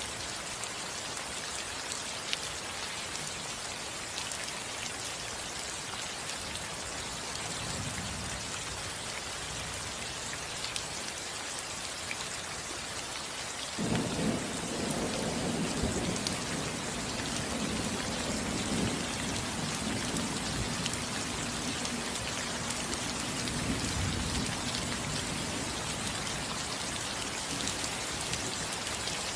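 Steady rain falling on a roof. About halfway through, a rumble of thunder comes in suddenly and rolls on for some ten seconds before easing.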